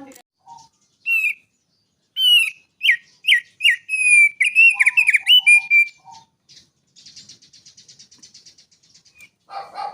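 A songbird singing: a run of loud, sharp whistled notes that slide up and down, followed by a fast, quieter rattling trill.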